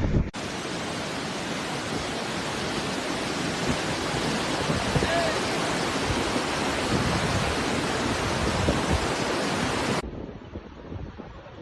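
Floodwater rushing down a flooded wadi: a steady, even rush of water. It cuts off sharply near the end to quieter, gusty wind on the microphone.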